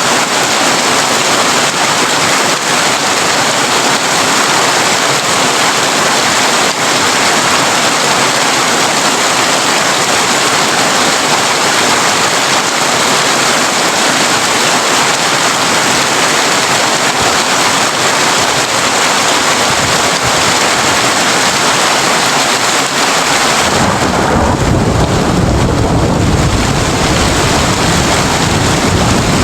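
Heavy rain drumming steadily on a tin roof, a dense unbroken hiss. Near the end a deep rumble of thunder rolls in under the rain.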